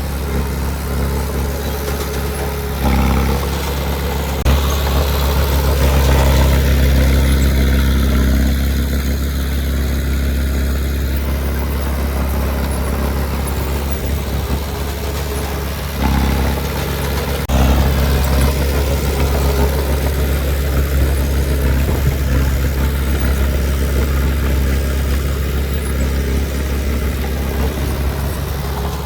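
Heavy diesel engine of earthmoving machinery running with a steady low drone, its load rising and falling: it grows louder about four seconds in, dips briefly near the middle and picks up again.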